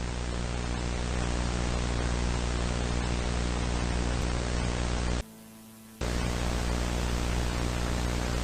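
Loud static hiss over a steady electrical hum, like a dead channel on a tape or TV. It cuts out to a faint hum for under a second about five seconds in, then comes back.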